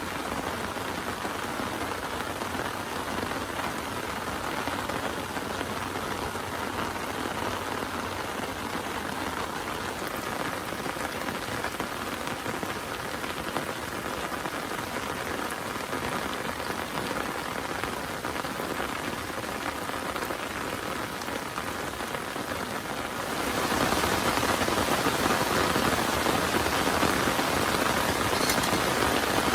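Heavy rain falling steadily, a dense even patter that grows louder about three quarters of the way through as the downpour intensifies.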